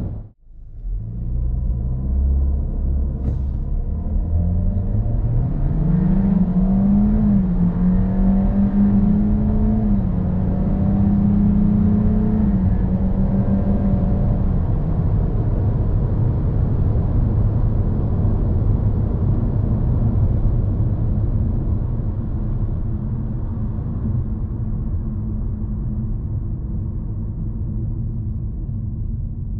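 Kia Seltos four-cylinder petrol engine under hard acceleration: the revs climb over the first few seconds, hold near one pitch for about eight seconds, then drop away to a steady cruising drone with road noise.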